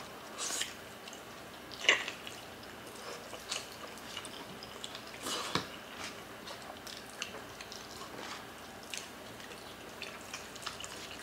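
Close-miked eating sounds: wet chewing, lip smacks and small mouth clicks as people chew saucy stewed oxtail and rice eaten by hand. The clicks come scattered, with the sharpest about two seconds in and again near the middle.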